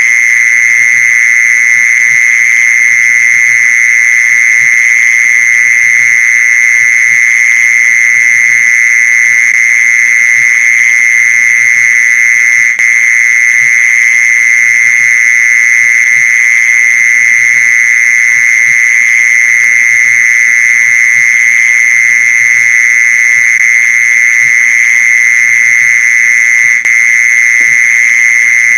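Mole cricket calling: one loud, unbroken, even trill held at a steady pitch without pause.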